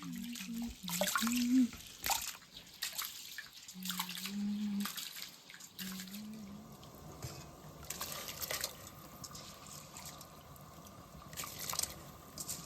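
Water dripping and splashing as cooking liquid and ingredients are handled in a pot or bowl. Light clicks and knocks are scattered through it, with a few short bits of voice in the first half.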